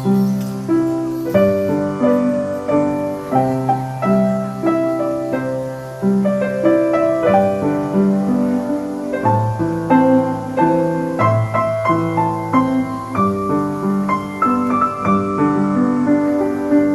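Background piano music: a gentle melody of evenly struck notes over sustained low bass notes.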